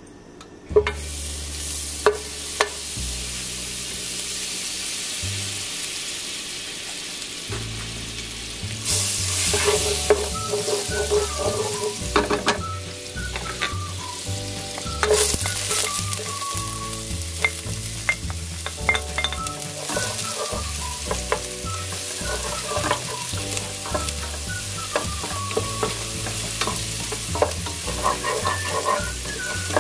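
Butter sizzling as it melts in a hot pot, then chopped onion and garlic frying in it while being stirred with a wooden spoon, with scattered taps of the spoon on the pot. The sizzle starts about a second in and gets louder about nine seconds in.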